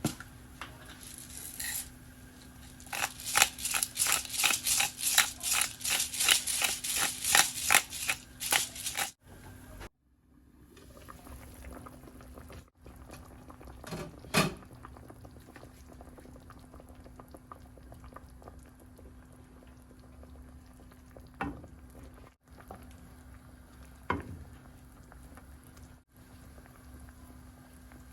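Metal kitchen utensil knocking and clattering in quick succession, about three to four strikes a second for several seconds. A few single knocks follow later, over a steady low hum.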